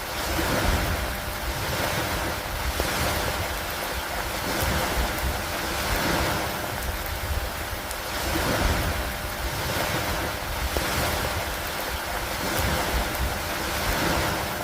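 Storm ambience of rain and wind over lake water: a dense hiss that swells and eases every couple of seconds like waves, over a steady low rumble.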